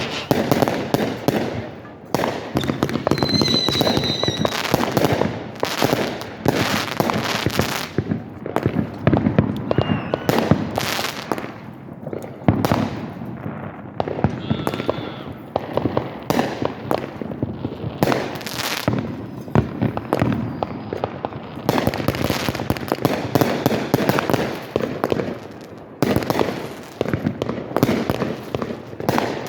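Fireworks show: aerial shells bursting and crackling in a dense, continuous run of bangs, several a second, with brief lulls about two seconds in and near the end.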